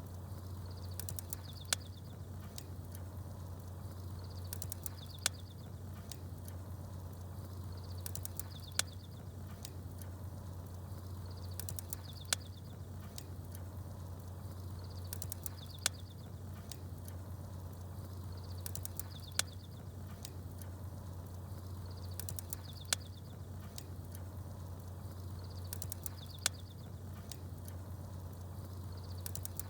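Campfire burning with small birds chirping: a sharp pop about every three and a half seconds, each just after a short burst of high chirps, over a steady low rumble. The events repeat at even spacing.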